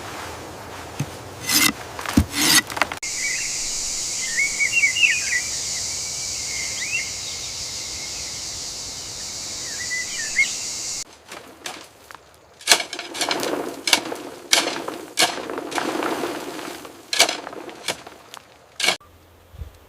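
Birds chirping in short calls over a steady high-pitched hiss, after a few sharp knocks. About eleven seconds in, the hiss stops and a run of irregular rustles and knocks follows.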